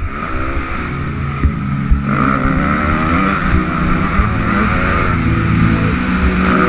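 Motocross bike engine revving as it rides, its pitch rising and falling repeatedly with the throttle.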